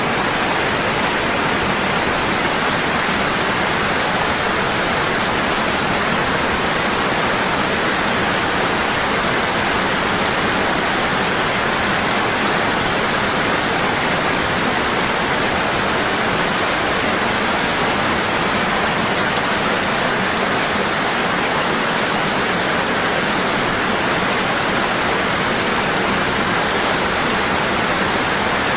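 Waterfall: water falling heavily and steadily, an even rushing noise that does not change.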